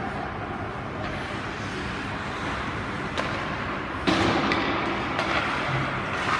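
Ice hockey game on the rink: steady rink noise with skate scraping. A sharp click comes about three seconds in, then a loud crack about four seconds in, followed by a short stretch of louder scraping and clatter.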